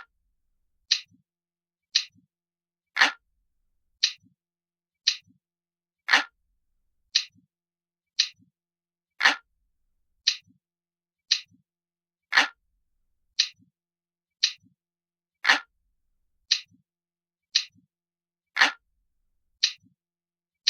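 Looped clock-ticking sound effect: crisp ticks at about one per second, every third tick louder and fuller, each tick followed by a faint soft click.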